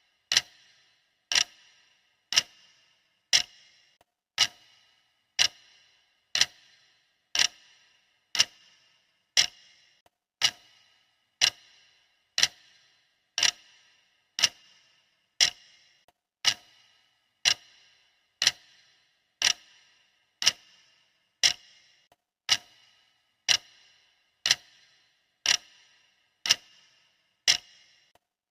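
Clock ticking steadily, one sharp tick a second, as a countdown timer's ticking sound.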